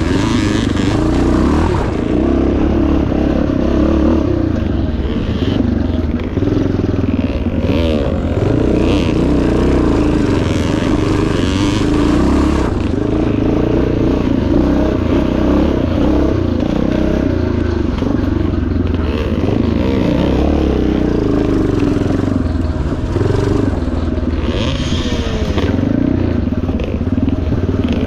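1977 Yamaha TT500's 500 cc four-stroke single-cylinder engine running hard off-road, its pitch rising and falling as the throttle opens and closes.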